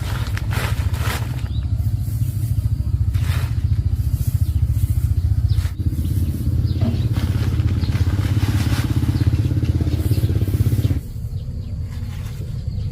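Small engine running steadily with a rapid low firing beat. It drops back to a quieter, slower-sounding run about eleven seconds in.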